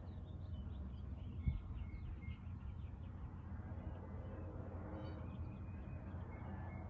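Small birds chirping over a steady low rumble, with one brief thump about one and a half seconds in.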